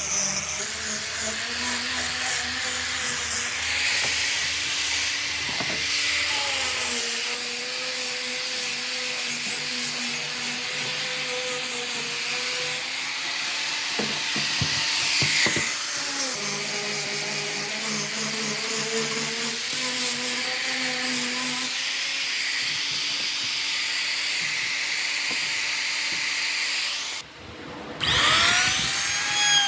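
Power tool running steadily as it cuts or sands wood, its motor hum shifting pitch now and then; it cuts off abruptly near the end and a sweeping, gliding tone follows.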